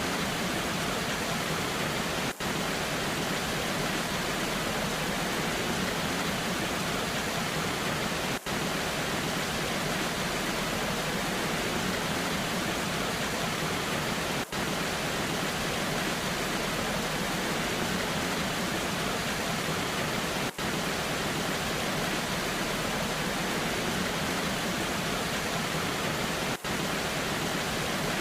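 Waterfall rushing steadily in the rain, an even hiss with no breaks in its texture. A brief dropout in level comes about every six seconds.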